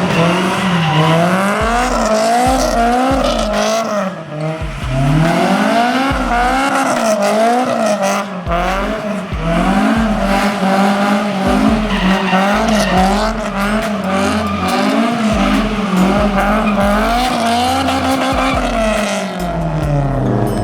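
Car engine held at high revs, its pitch swinging up and down about twice a second as the throttle is worked, with tyres squealing: a car doing donuts or drifting. Near the end the revs fall away.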